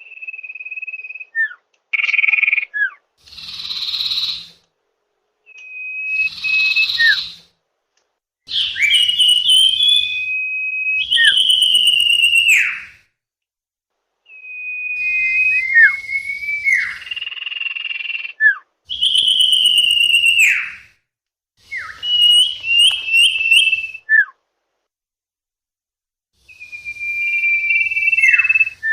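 Common iora (cipoh/sirtu) singing a lure song: about a dozen separate phrases of clear whistles, many ending in a sharp downward slur, some with quick trilled notes and a few harsh hissing notes, with short pauses between phrases.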